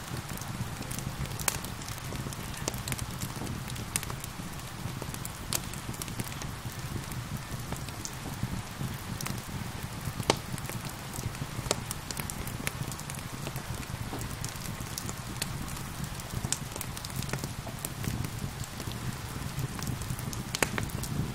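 Wood fire crackling, with sharp pops scattered irregularly throughout, over a steady hiss of gentle rain.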